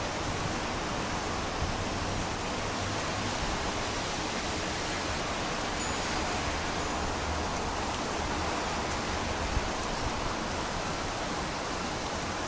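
Steady rushing noise of strong typhoon wind, with gusts rumbling on the microphone and a single short knock about nine and a half seconds in.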